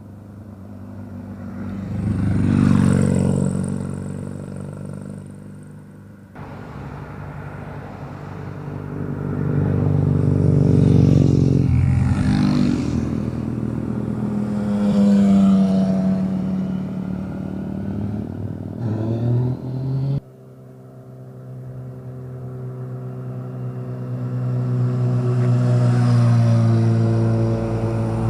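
Motorcycles riding past one after another, their engines swelling as each approaches and accelerates by, then fading away. The sound cuts abruptly to a new pass twice, about six and twenty seconds in.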